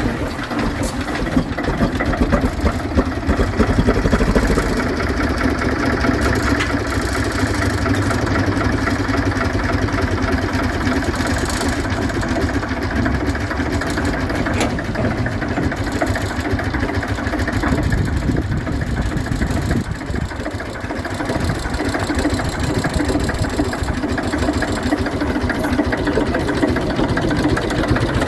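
Lister JP3 diesel engine running steadily, with a dense, even engine sound that eases slightly in level about twenty seconds in.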